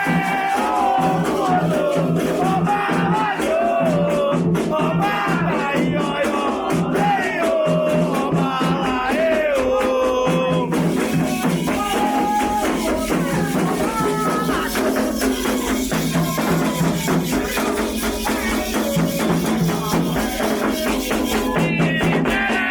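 Candomblé ritual song: a sung melody over shaken rattles and steady percussion, keeping an even rhythm throughout.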